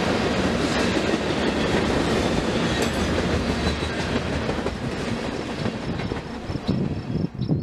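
Freight train cars rolling past at speed: a steady rumble and clatter of steel wheels on the rails. It fades down near the end as high chirping comes in.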